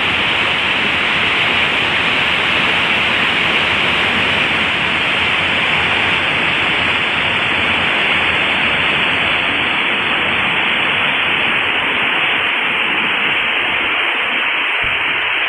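Heavy rain pouring down, a loud, steady hiss with no letup.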